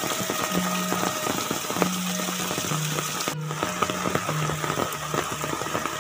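Rain falling steadily on wet ground and a concrete path, with many raindrop ticks. Soft background music with slow, held low notes plays over it. The sound drops out for an instant about halfway through.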